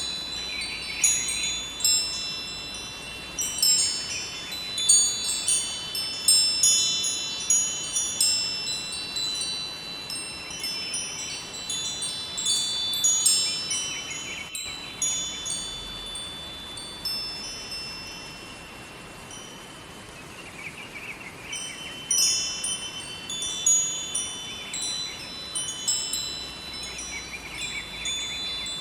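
Metal wind chimes ringing, clear high tones struck irregularly in clusters, over a steady rush of flowing river water. The chimes thin out for a few seconds past the middle, then pick up again.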